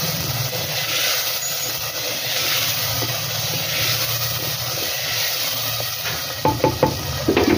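Chicken and onion-garlic masala frying in hot oil in a clay handi as a wooden spoon stirs it: a steady sizzling hiss, with a few short knocks near the end.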